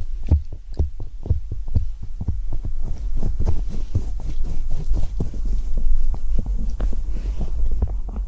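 Fast, irregular close-miked taps and scratches, several a second, each with a deep thud, over a steady low rumble, in the manner of ASMR tapping on or near a microphone.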